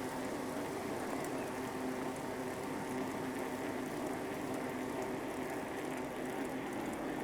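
Bicycle rolling along a path: steady tyre and drivetrain noise with a low hum running under it and faint scattered ticks on top.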